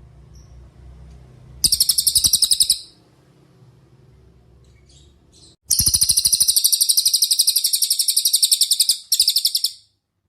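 A cililin songbird singing loud, rapid, high-pitched trills of fast-repeated notes: a short trill of about a second, then a longer one of about three seconds with a brief break near its end.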